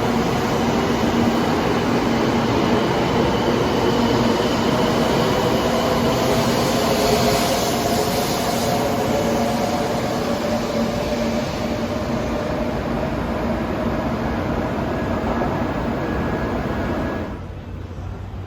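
Shinkansen-type electric train running on the rails: steady rolling noise with a motor hum and whine that ease gradually, as when the train slows. The level drops suddenly near the end.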